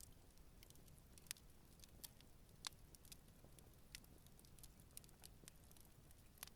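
Wood campfire crackling softly: irregular sharp ticks and pops over a low steady rumble, with a few louder pops scattered through.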